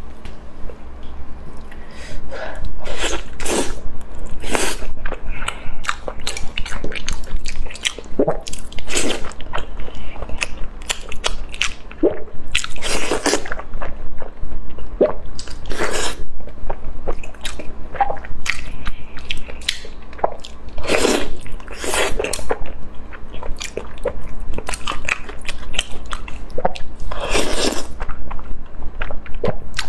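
Close-miked eating: a person biting and chewing braised trotters, with a dense, irregular run of short wet mouth sounds and a few longer, louder ones.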